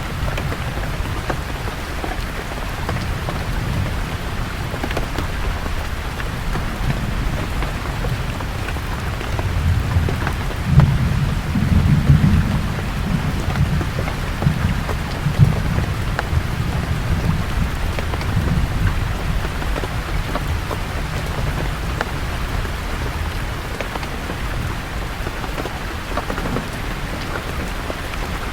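Steady rain falling on leaves, with fine drop patter, and a low roll of thunder swelling in about a third of the way through and fading away over several seconds.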